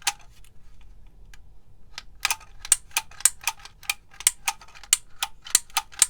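Handheld label maker clicking as it is worked to feed and print the label tape: a few scattered clicks, then a quick, fairly even run of about four clicks a second from about two seconds in.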